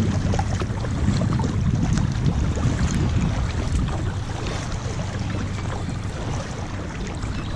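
Wind buffeting the microphone on open water, a steady low rumble, with faint water noise around a kayak.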